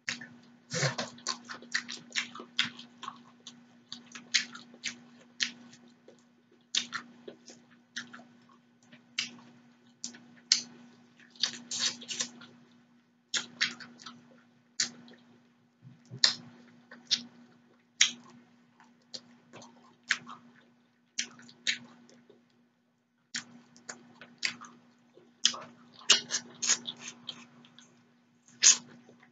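Close-miked eating of shrimp and noodles: wet chewing, lip smacks and sharp mouth clicks coming in irregular clusters, over a faint steady hum.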